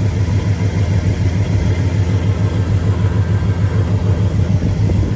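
Car engine idling: a steady low rumble with a quick, even pulse.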